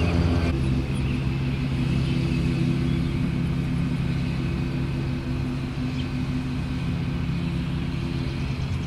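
A motor vehicle's engine running steadily, a low hum whose pitch shifts slightly about half a second in.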